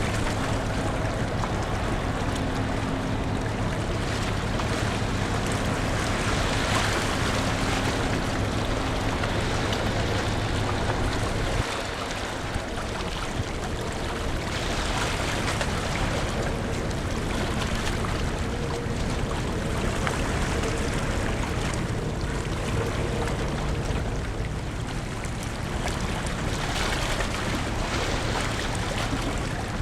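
Steady drone of a large car ferry under way, with rushing water and wind noise; a low engine hum drops away about twelve seconds in.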